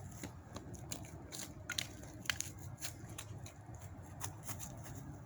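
Small dry sticks being snapped and broken by hand for kindling, a scatter of sharp, irregular cracks, the loudest a little after two seconds in, over a steady low hum.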